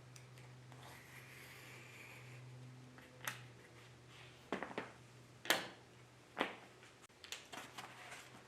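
A series of sharp clicks and knocks from objects being handled or set down, over a low steady hum that stops about three seconds in.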